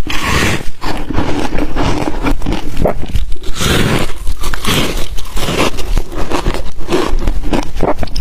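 Ice dusted with matcha and milk powder being bitten and chewed right at the microphone, a loud, rapid, continuous crunching.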